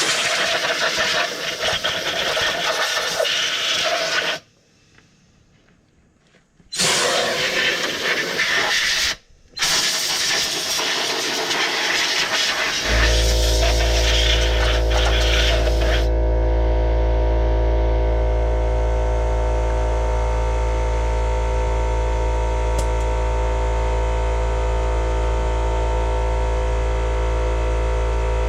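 Three long bursts of loud hissing with short breaks between them, then a steady machine hum with several fixed tones that starts about halfway through and keeps going.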